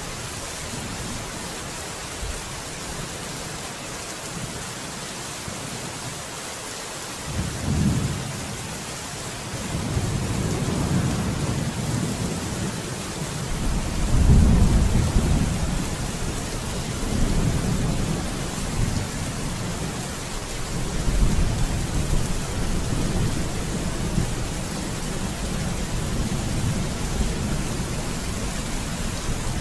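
Steady rain falling, with thunder rolling in about a quarter of the way through. The rumbles swell and fade several times and are loudest around the middle.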